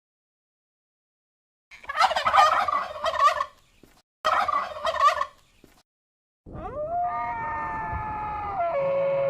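A bird gives two bursts of rapid, warbling calls, each about a second and a half long, after about two seconds of silence. Near the end a long, held call with a steady pitch follows, rising at its start and dropping just before it ends.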